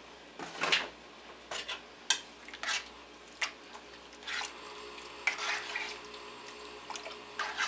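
A spoon stirring and scraping in a pot of chili, with a dozen or so irregular clinks and scrapes against the pot.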